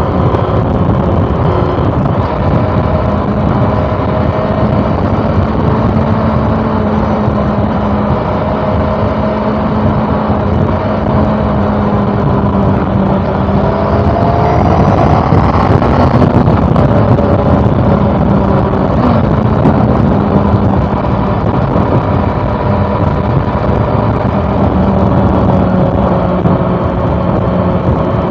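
Honda CB400 Super Four's inline-four engine running steadily while the bike is ridden. About halfway through the revs rise, then drop back a few seconds later.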